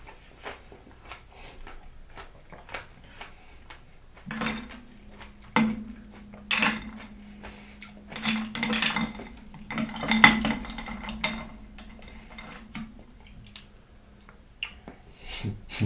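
Metal spoon clinking and scraping in a bowl of cut berries, grapes and ice in coconut water, with bouts of eating noise between the clicks. A low steady hum runs through the middle of the stretch.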